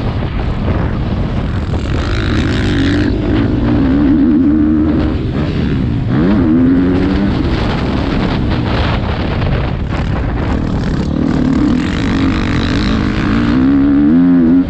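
Motocross bike engine running hard on a track, its pitch rising and falling repeatedly with throttle and gear changes, heard from a helmet-mounted camera.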